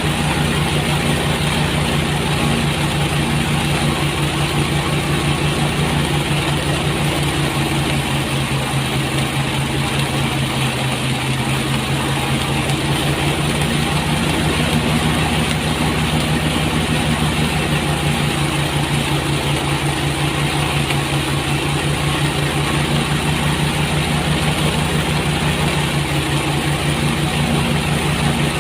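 Engine-driven rice threshing machine running steadily, its motor humming with an even low pulse under a constant rushing clatter.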